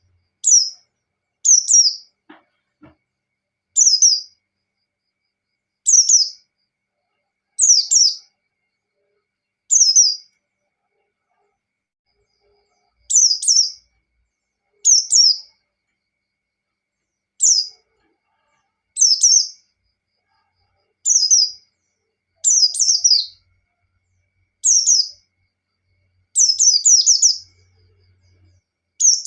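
A white-eye (pleci) giving short, high chirps in the 'ngalas' style: sharp notes falling in pitch, one every second or two, some in quick doubles, with a tighter run of notes near the end. This style of song is used as a lure to provoke other white-eyes into singing.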